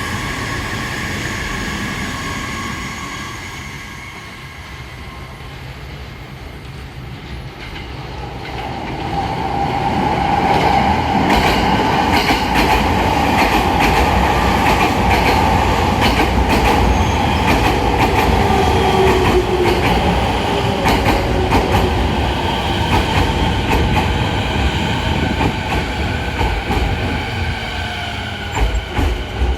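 Rinkai Line 70-000 series electric train pulling into a station. It grows loud as it runs in, its wheels clacking over the rail joints. The whine of its motors falls in pitch as it brakes and slows.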